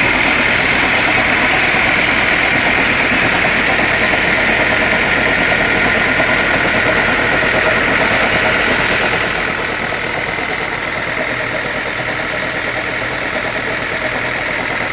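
Sawmill saw machinery running steadily with a high whine, dropping a little in loudness about nine seconds in.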